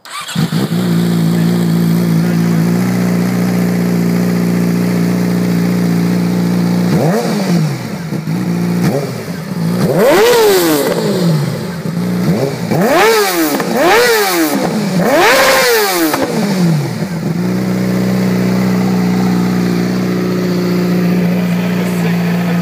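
2008 Yamaha YZF-R6 inline-four with an M4 aftermarket exhaust starting up and settling into a steady idle. About seven seconds in it is revved in about five quick throttle blips, each pitch rising and falling, before dropping back to idle.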